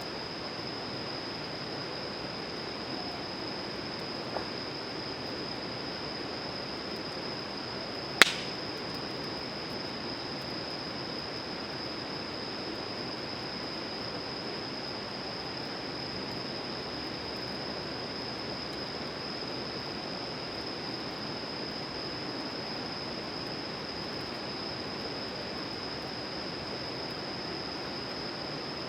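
Wood campfire burning over a steady rushing background and a constant thin high tone, with one sharp loud pop about eight seconds in and a faint tick a few seconds before it.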